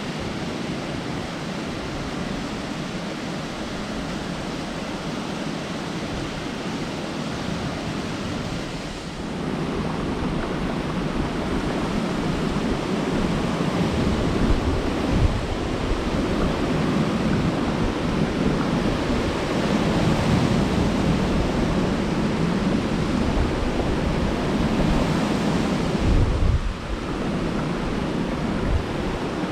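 Waterfall's rushing water, a steady noise that grows louder about a third of the way in, with a brief dip near the end.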